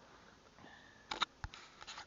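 Faint handling of a blown turbocharger: a quick cluster of light metal clicks about a second in, then a single knock and a short faint hiss as the shaft and wheel are pushed and turned by hand.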